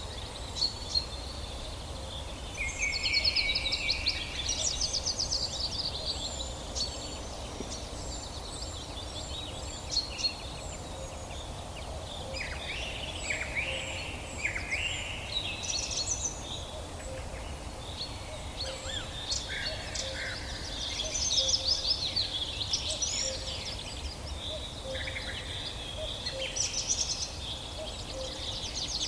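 Several birds singing and calling at once: overlapping chirps, trills and gliding whistles, with a run of quick high notes in the first several seconds, over a steady low background rumble.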